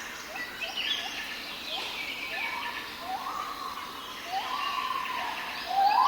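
Birds calling over a faint steady hiss: a run of short rising chirps about twice a second. Longer calls that rise and then hold their pitch come in the second half and get louder near the end.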